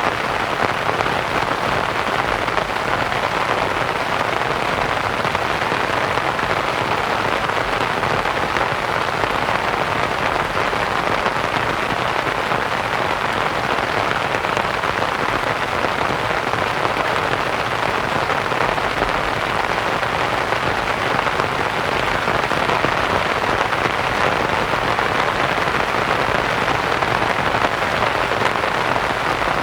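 Steady rain pattering on a canvas tent, blended with white noise into an even, unchanging hiss.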